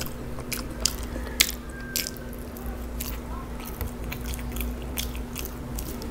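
Close-miked chewing of French fries: scattered wet mouth clicks and small crunches, over a steady low hum.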